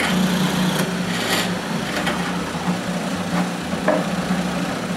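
Electric drill running steadily as it bores holes in wood, a constant motor hum with short stretches of higher cutting noise.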